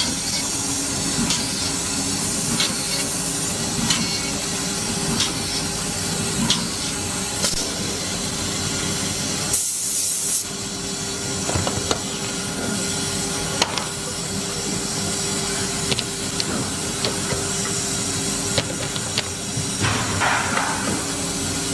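Woodworking panel machinery running with a steady hum and noise, and a light click about every second and a half. About ten seconds in there is a short burst of compressed-air hiss.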